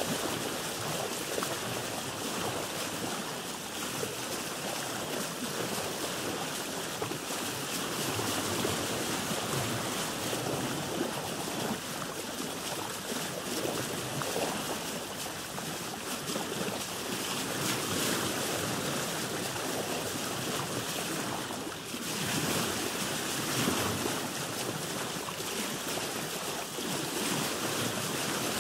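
Sea waves washing against a boat, a steady rushing wash that swells and eases gently every few seconds.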